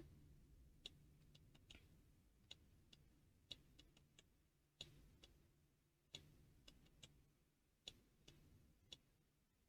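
Near silence with faint, irregular computer mouse clicks, about nine of them, roughly one a second.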